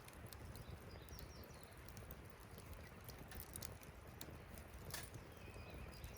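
Quiet wood campfire crackling, with small sharp snaps and pops scattered irregularly over a low rumble of burning.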